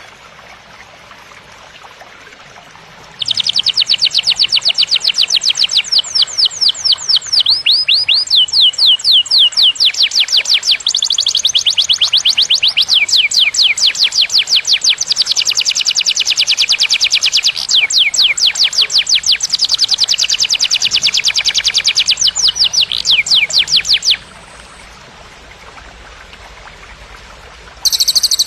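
Murai (white-rumped shama) singing in long, fast trills of repeated sharp, high downward-sweeping notes, breaking off about 24 s in. A different loud, dense call starts just before the end.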